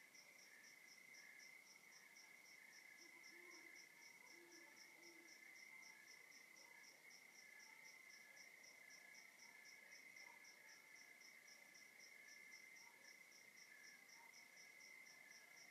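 Faint chorus of crickets at night: one steady, unbroken high trill under a separate, higher chirp repeating evenly about three times a second. A few faint low notes come briefly about three to five seconds in.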